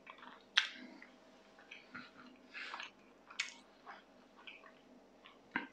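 A person quietly chewing a mouthful of a chicken fillet bagel with the mouth closed. Soft, scattered chewing noises are broken by a few sharper clicks, about half a second in and again near the middle.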